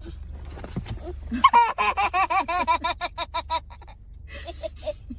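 An animal lets out a rapid run of short, pitched calls, about eight a second, for some two seconds, in response to being tickled. Softer, lower calls follow near the end.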